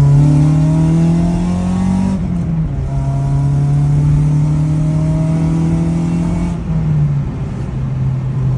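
2004 Honda Civic Si's four-cylinder engine pulling under acceleration, its note climbing steadily. The pitch drops back twice, about two seconds in and again near the end, as at gear changes.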